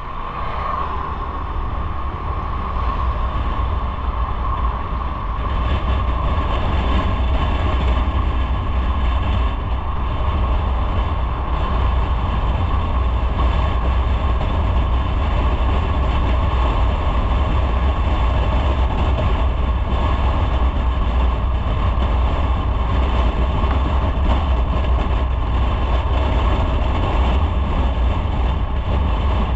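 Motorcycle on the move: steady engine and road noise with heavy wind rumble on the microphone, building over the first few seconds and then holding steady at speed.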